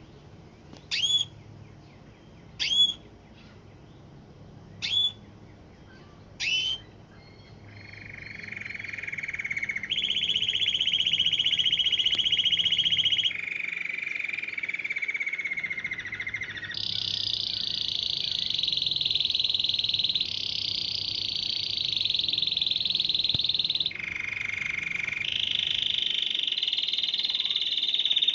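Canary singing: a few short separate call notes about every two seconds, then from about eight seconds in a continuous song of long rapid trills (rolls), each held for a few seconds before switching abruptly to a new one.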